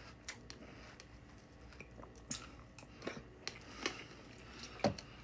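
Someone chewing a mouthful of Fruity Pebbles cereal with milk: scattered soft crunches and wet mouth clicks.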